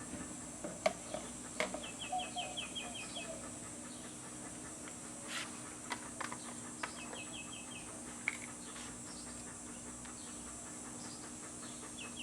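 A bird calling in quick runs of six or seven short chirps, three times, over a steady high hiss. A few sharp clicks are scattered through.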